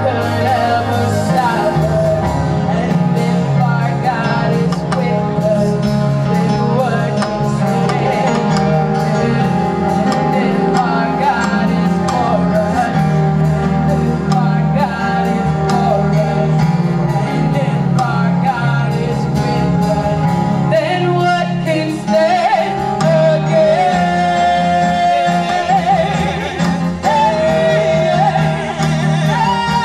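Live gospel worship music: a band playing sustained chords over a bass line while a singer sings a wordless, drawn-out melody.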